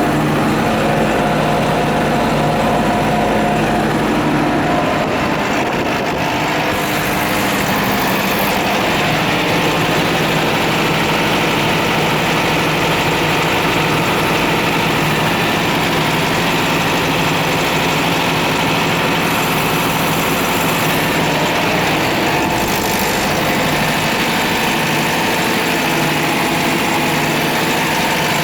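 Engine idling steadily, its note shifting slightly about six seconds in.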